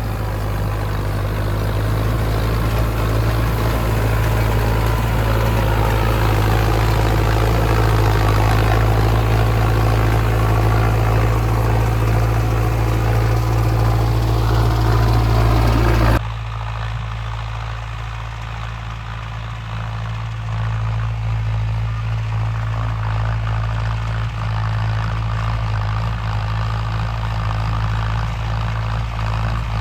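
Mahindra Arjun Novo 605 tractor's diesel engine running steadily. A little over halfway through the sound changes abruptly and becomes quieter and duller, though the engine hum carries on.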